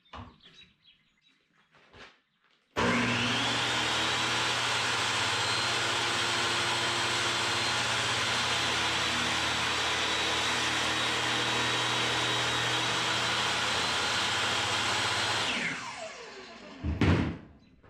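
An electric woodworking saw starts with a rising whine about three seconds in, runs steadily for about twelve seconds while cutting a board along a marked line, then spins down with a falling pitch. A sharp knock follows near the end.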